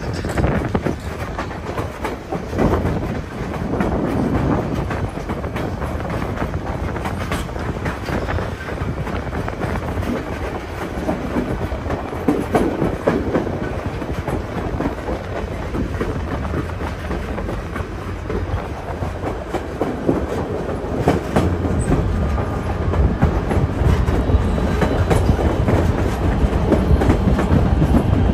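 Narrow-gauge passenger train running along the track, a steady rumble of steel wheels on rails with occasional clickety-clack clicks over the rail joints, heard from the open side of a moving car.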